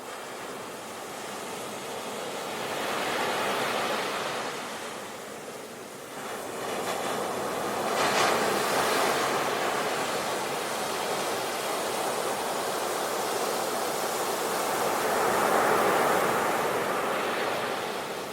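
Sea waves breaking on the shore: the rush of surf swells and fades three times, with one wave breaking suddenly about seven seconds in.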